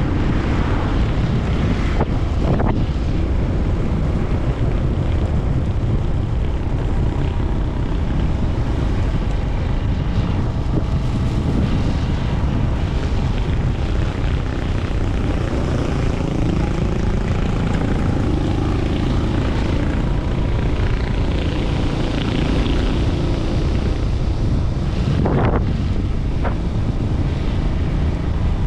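Honda TMX 125 Alpha's single-cylinder four-stroke engine running under way, with wind noise on the microphone; the engine pitch dips and rises about halfway through as the speed changes.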